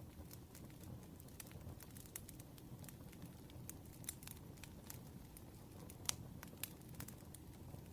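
Wood fire crackling: irregular sharp pops and ticks over a low, steady rumble, the loudest pop about six seconds in.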